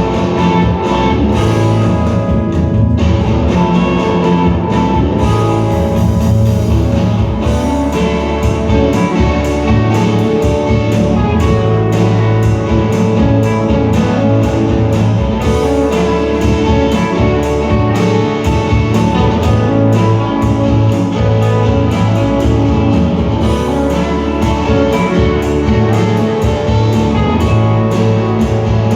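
Rock band playing live: guitar over a drum kit, with a steady beat and no gaps.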